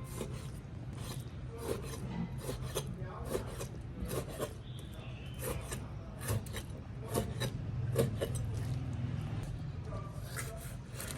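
Repeated irregular scraping strokes, several a second at times, over a steady low hum.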